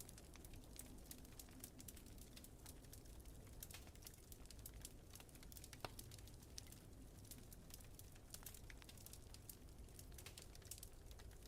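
Wood fire crackling faintly, with many small irregular pops and snaps over a low steady rumble.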